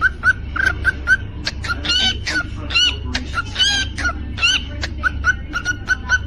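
Cockatiel chirping and whistling: a rapid run of short repeated chirps, with four louder whistled notes in the middle.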